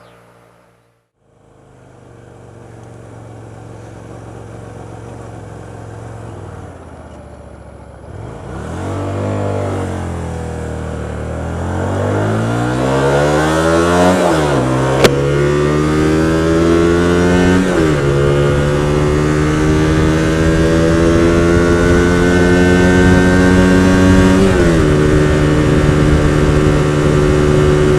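Hyosung GT125R motorcycle's 125 cc V-twin idling, then pulling away and accelerating up through the gears: the pitch rises and drops back at each of about three upshifts. A single sharp click about fifteen seconds in.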